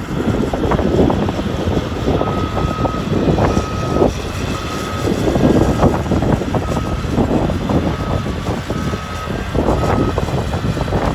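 CAT 325D excavator's diesel engine running under load, with a warning alarm beeping at one pitch about once a second from about two seconds in. Irregular knocks and crackles run through it.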